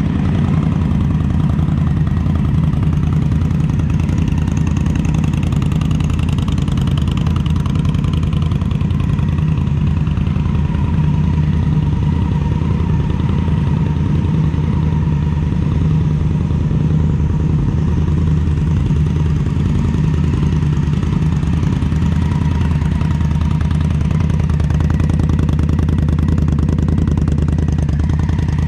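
2015 Indian Scout's liquid-cooled V-twin idling steadily through an aftermarket Vance & Hines exhaust.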